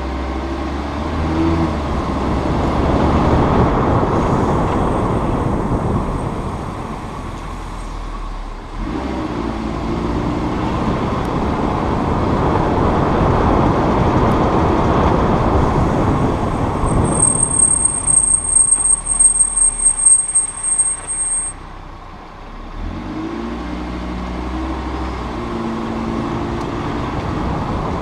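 Audi RS3 sedan's five-cylinder engine and tyre noise while driving. About two-thirds of the way in, the brakes squeal with a loud, high, steady tone for about four seconds as the car slows, after a fainter squeal near the start.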